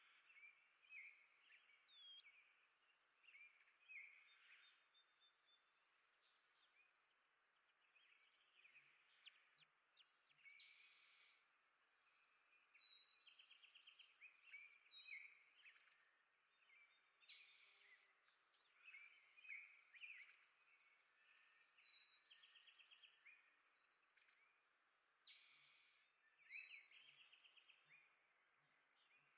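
Faint songbirds chirping, with many short whistled notes and quick rattling trills.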